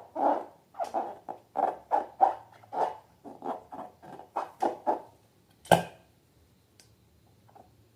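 Slime being squished and worked by hand: a run of quick wet squelches, about two or three a second, that stops about five seconds in. A single sharp click follows a little later.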